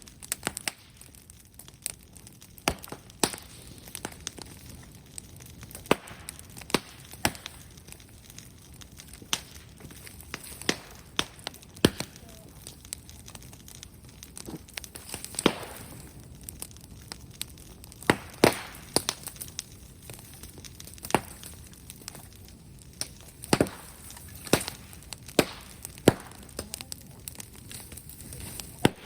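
Bonfire of brushwood and bamboo crackling, with frequent sharp cracks and pops at irregular intervals.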